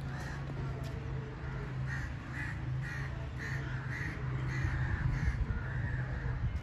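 Crows cawing, a quick series of short calls repeated two or three times a second, over a steady low hum.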